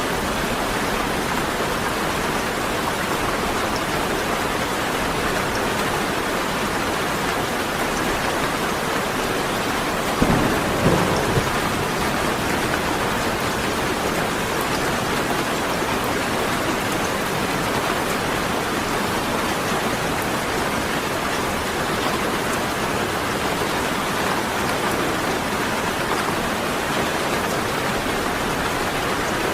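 Steady rain falling, with a short rumble of thunder about ten seconds in.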